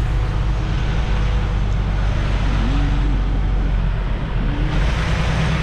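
Semi-truck's diesel engine running steadily at low speed as the rig makes a slow turn in a yard, a continuous low drone. Near the end a hiss of broad noise rises over it.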